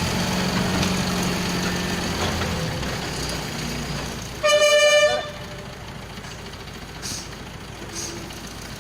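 Heavy vehicle engine running, fading away over the first few seconds. About four and a half seconds in, a single loud vehicle horn blast of under a second, then only quieter background.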